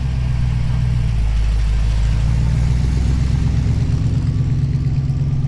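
Car engine running at a steady idle, a loud low rumble.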